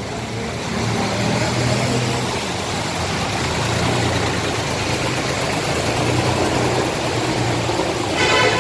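Bus engine running with a steady low hum, getting louder about a second in. A higher-pitched sound with several tones comes in near the end.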